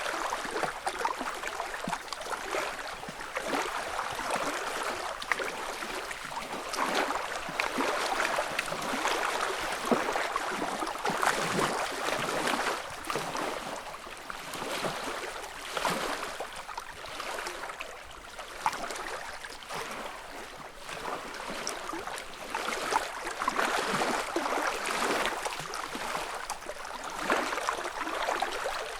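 Small lake ripples lapping and splashing at the shore in a continuous patter of little splashes that swells and ebbs every few seconds.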